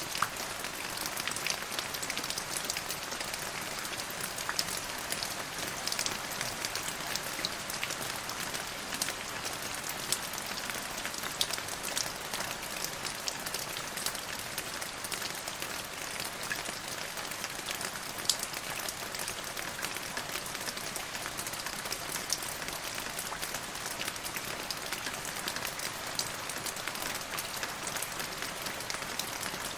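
Steady rain falling, a continuous hiss with many fine drop ticks and occasional louder drips.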